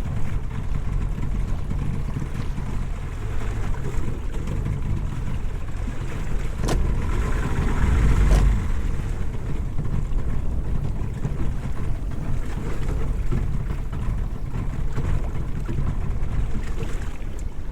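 Wind on the microphone and water moving against a small fishing boat at sea, a steady low rush that swells briefly about seven seconds in, with a couple of sharp knocks.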